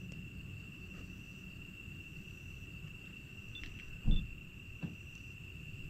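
A steady, high-pitched insect trill runs on over a low background rumble. A loud low thump comes about four seconds in, and a smaller one follows shortly after.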